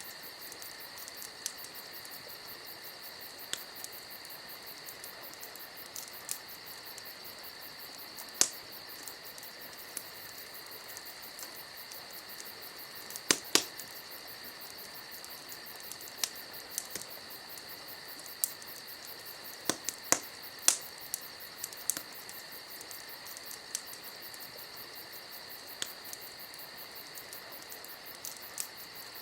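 Campfire crackling, with sharp pops every second or two at irregular intervals and a loud double pop about halfway through. Under them, crickets keep up a steady chirping.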